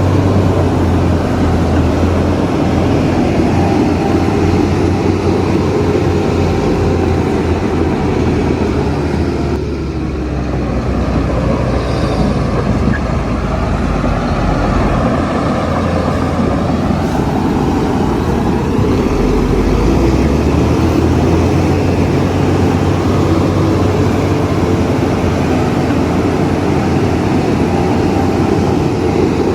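Heavy diesel construction machinery running steadily, with a strong low rumble; the level dips briefly about ten seconds in.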